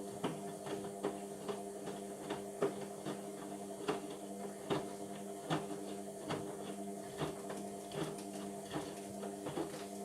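Indesit washing machine running mid-cycle: a steady motor hum as the drum turns, with a light knock about once every 0.8 seconds.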